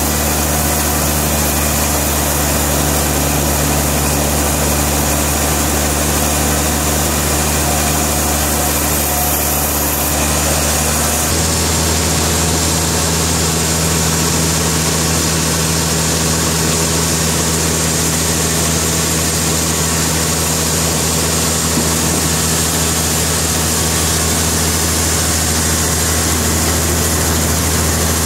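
Sawmill machinery running steadily: a heavy engine's low, even drone under loud steady noise, its tone changing abruptly about ten seconds in.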